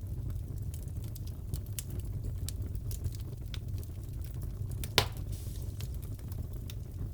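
Wood fire crackling in a fireplace: a steady low rumble with scattered small crackles and one loud pop about five seconds in.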